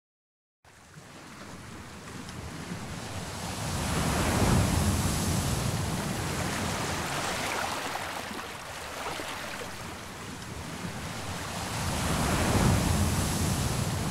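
Ocean surf: waves washing in as a rushing wash that fades in about half a second in and swells twice, once near the start and again near the end.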